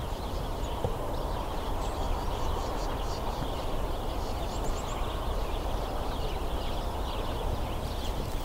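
A flock of house sparrows chattering: many short, overlapping chirps, over a steady low background noise.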